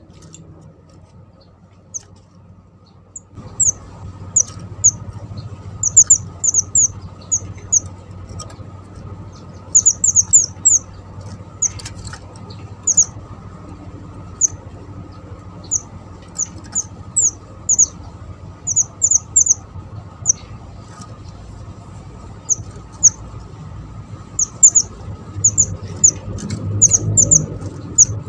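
Pied bushchat (mantenan) singing actively: short, sharp, high chirps, often two to four in quick succession, repeated every second or so. A steady low background hiss starts a few seconds in.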